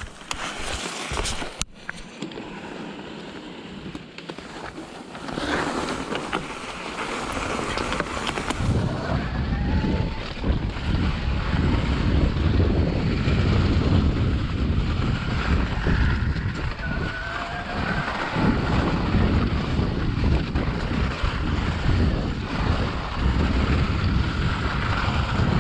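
Wind buffeting the microphone while riding along, with a heavy low rumble. It is fairly quiet at first, grows louder about five to nine seconds in, and stays strong after that.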